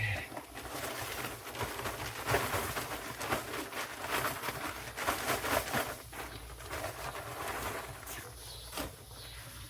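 Wet sand being scraped and spread in the filter bin, in irregular rasping strokes that ease off after about six seconds.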